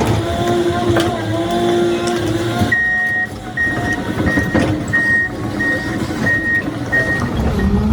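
A heavy machine's engine running, with occasional knocks. About three seconds in, a reversing alarm starts beeping steadily at about one and a half beeps a second.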